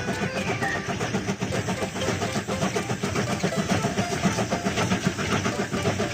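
Train engine sound effect, running steadily with a fast, even pulse.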